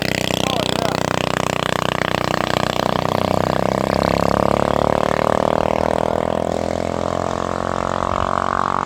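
Mini bike's small engine running hard at steady high revs, its pitch climbing a little near the end.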